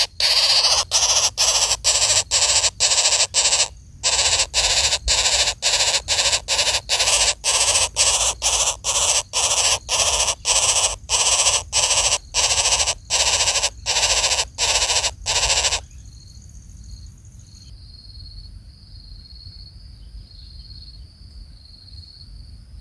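A bird's harsh, rasping calls, repeated about two a second, stopping suddenly about sixteen seconds in. After that a faint, steady, high thin buzz remains.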